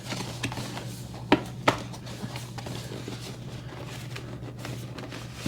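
A cardboard trading-card box being opened and handled, with a few sharp taps and knocks, the loudest two about a second and a half in, over a steady low hum.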